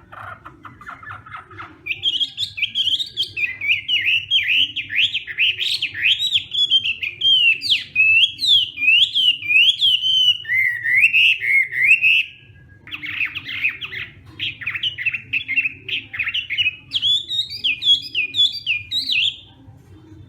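Chinese hwamei singing a loud, varied song of rapid repeated notes and whistled slurs in two long phrases, with a short break in the middle, over a steady low hum.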